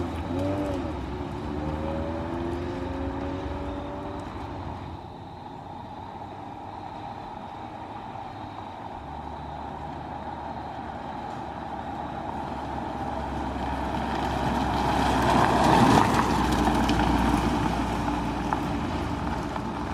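Honda H22A 2.2-litre four-cylinder engine running on fresh spark plugs and plug wires, growing louder about 15 seconds in. It runs without the misfire, which the owner counts as fixed.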